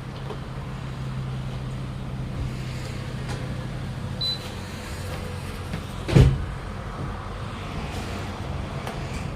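A steady low mechanical hum, with one loud sharp knock about six seconds in.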